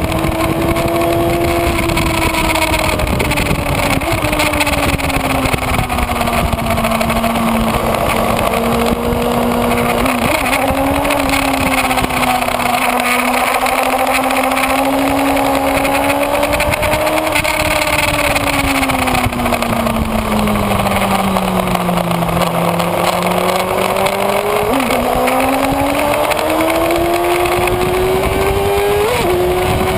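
Kawasaki Ninja ZX-6R inline-four engine heard from on board while riding, its pitch falling and rising with the throttle, with quick steps at the gear changes and its lowest point a little past the middle. A steady rush of wind runs under it.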